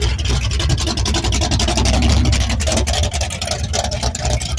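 A car engine running nearby: a steady, deep, rapidly pulsing idle.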